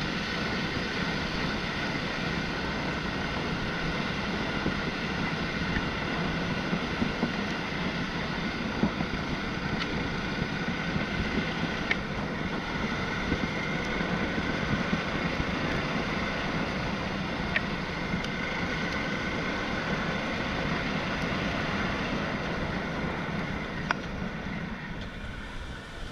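A motorcycle riding along, its engine running steadily under wind noise on the microphone, with a few small knocks; the engine eases off near the end.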